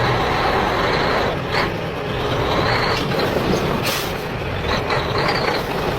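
Toy mini truck's small electric motor and gears running hard under load, a steady noisy whirring with a few knocks.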